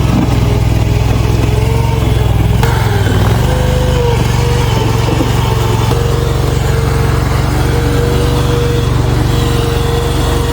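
Small gasoline engine of a mini skid steer loader running steadily, with a steady whine above it. The engine note shifts briefly about three seconds in.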